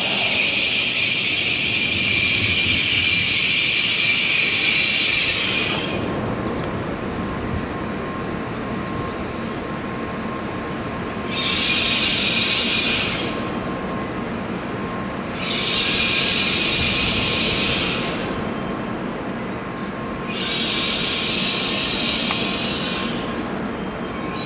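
N700S Shinkansen train at the platform: a steady low hum with a faint steady tone, and a loud high hiss that stops about six seconds in and then comes back three times in bursts of two to three seconds.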